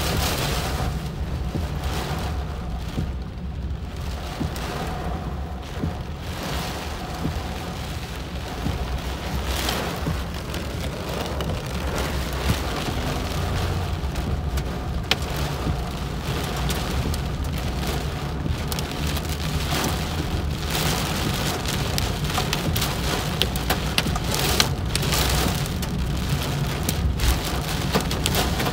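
Heavy rain beating on a car's windshield and body, heard from inside the cabin, with a continuous hiss and scattered sharp drop ticks. Under it runs a steady low rumble from the moving car.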